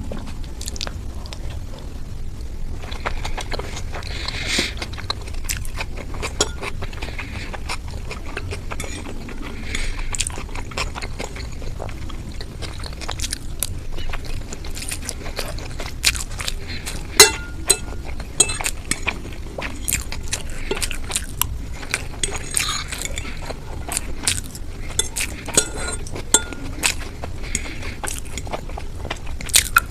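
Close-miked eating: a person chewing, with many small crackles and scattered clinks against a dish, and one sharp click about 17 seconds in.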